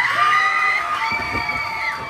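Wrestling crowd shouting and cheering, with a long high-pitched scream or yell held for nearly two seconds.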